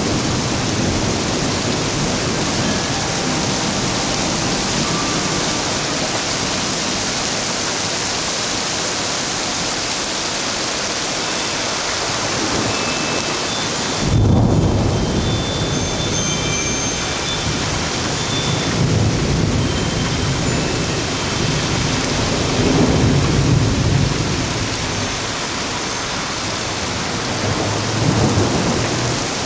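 Thunderstorm: heavy rain falling steadily, with a sudden clap of thunder about halfway through that rolls on as deep rumbling, swelling again a few times toward the end.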